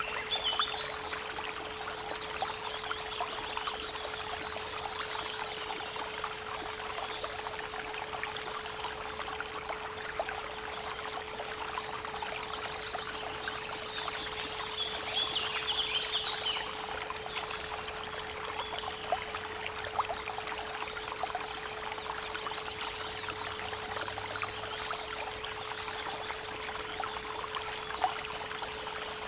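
Creek water running steadily, with birds chirping in short bursts now and then, over a steady 432 Hz pure tone.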